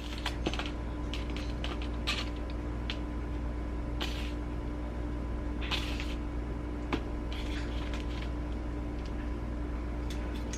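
Scattered light clicks and a few brief rustles of food being handled on a kitchen counter while banana peppers go onto a sandwich. A steady electrical hum runs under them.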